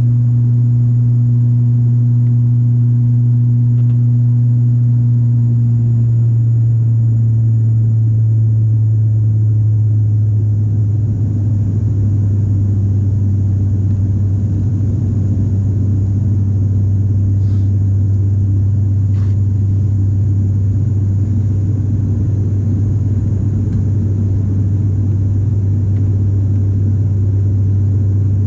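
Airliner engines heard from inside the cabin: a loud, steady low drone, with a rushing noise that builds from about ten seconds in. Two faint clicks sound near the middle.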